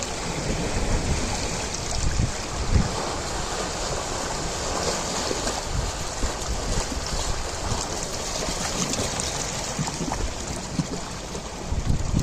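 Ocean waves washing and breaking in a continuous rush, with wind buffeting the microphone in low, irregular gusts.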